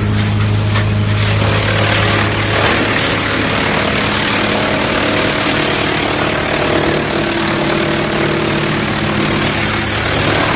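Drum wood chipper running. A steady low machine hum is joined, about a second and a half in, by a louder, rougher noise that continues.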